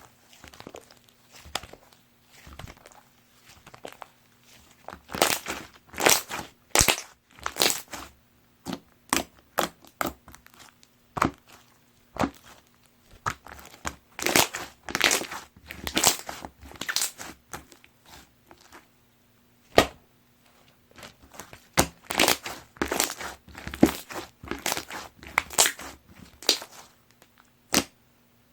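Opaque slime being squished and pressed by hand, giving irregular runs of sticky crackling clicks and pops, with short pauses between handfuls.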